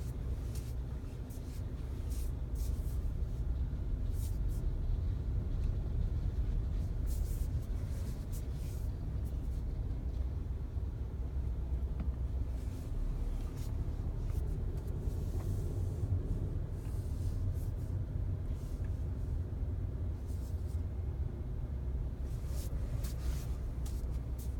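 Volkswagen Passat B8 cabin noise while driving: a steady low road-and-engine rumble, with scattered faint high-pitched ticks or creaks coming and going.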